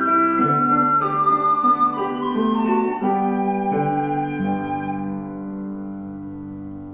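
Live classical instrumental music: a slow melody stepping downward over held low notes, gradually fading away near the end as the phrase closes.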